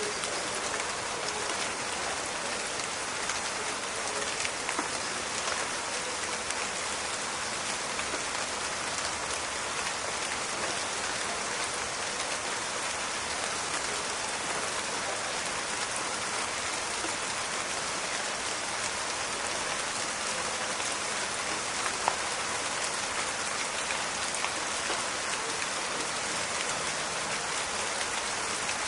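Steady rain falling, a dense crackle of individual drops hitting surfaces, with one sharper drop about 22 seconds in.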